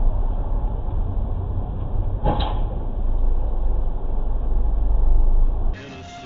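Heavy low rumble of a moving vehicle, road and wind noise on a low-quality recording, with one brief sharp knock about two seconds in. It cuts off abruptly near the end.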